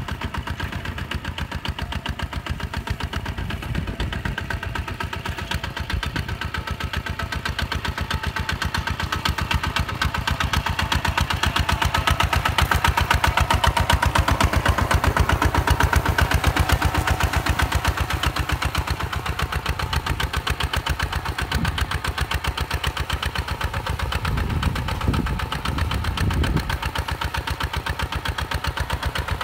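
Diesel engine of a Hinota HG Gold 155 DI paddy-field tractor running with a steady, rapid chug, growing louder around the middle. A few low thumps near the end.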